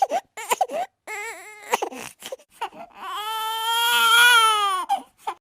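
A baby crying: a run of short, wavering cries, then one long wail starting about three seconds in that breaks off near the end.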